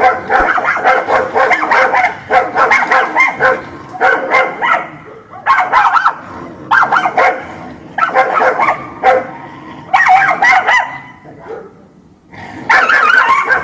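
Dog barking in rapid runs of short, sharp barks, with a brief lull about eleven seconds in before the barking starts again.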